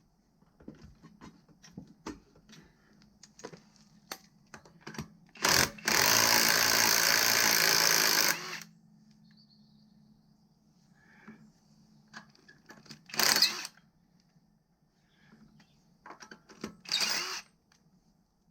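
A power tool run in short bursts: one long run of about two and a half seconds about six seconds in, then two shorter bursts later. Clicks and knocks of tools being handled come between them.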